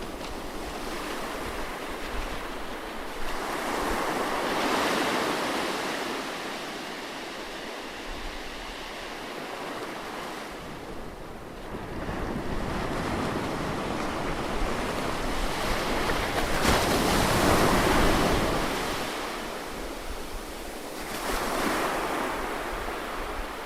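Ocean waves breaking and washing up a beach, swelling and falling back every few seconds, the loudest surge about two-thirds of the way through.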